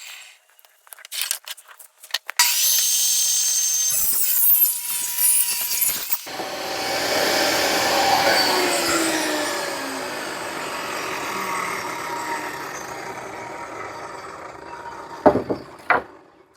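Table saw switched on, its motor and blade running up to speed with a steady whine, then ripping a long board, the cutting noise loud with a pitch that sinks slowly through the cut before easing off. A few knocks near the end.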